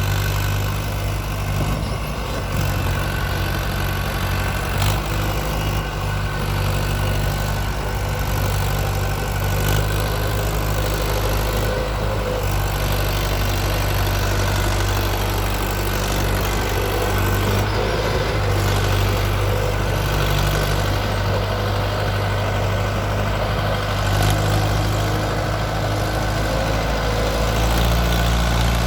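Mahindra Arjun 555 DI tractor's four-cylinder diesel engine running steadily.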